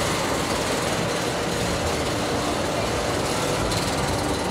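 Park railroad train running along the track, heard from aboard an open-sided passenger car: a steady running noise of the moving cars on the rails.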